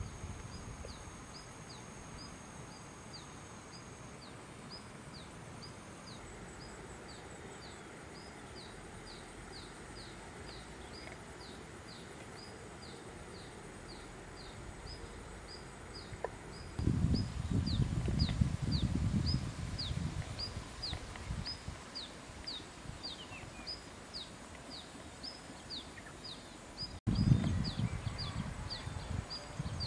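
A small bird repeating a short, high, falling chirp about twice a second over a steady outdoor hiss. Low rumbles of wind on the microphone come in about halfway through and again near the end.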